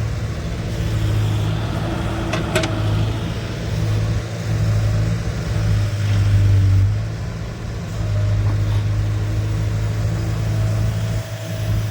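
Heavy diesel engine running steadily with a low hum that swells slightly in places, and a sharp click about two and a half seconds in.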